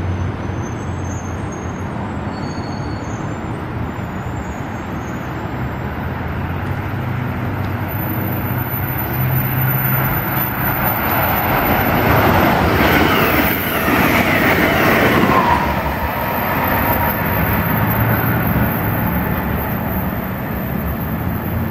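SEPTA Regional Rail electric train approaching along the track and running past the platform, its wheels rumbling on the rails. The noise builds to its loudest a little over halfway through, then eases off.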